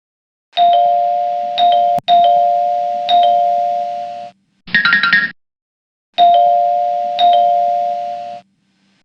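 Electronic two-tone chime alert, like a doorbell, struck four times about a second apart, each strike slowly fading. A short, higher multi-note jingle comes about five seconds in, then the chime strikes twice more.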